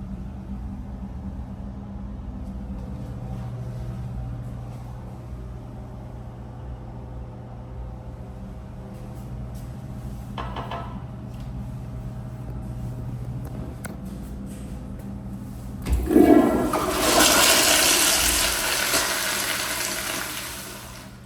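Kohler Highcliff toilet flushing. About sixteen seconds in, a clunk starts a loud rush of water that lasts about five seconds and dies away. Before the flush there is only a steady low hum.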